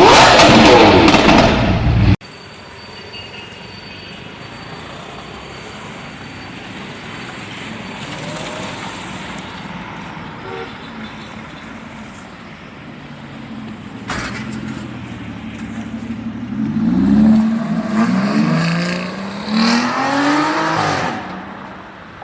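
Aston Martin Rapide's 6.0-litre V12 passing at speed, loud for the first two seconds before it cuts off suddenly. After a quieter stretch of street noise, the V12 revs and accelerates several times near the end, its pitch rising and falling.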